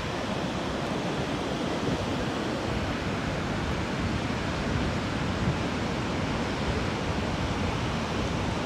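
Niagara Falls: the steady rush of a large volume of falling water, an even noise with no breaks.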